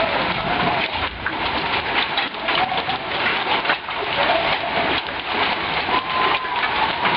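Heavy hail pouring down, a dense, steady clatter of countless hailstones striking.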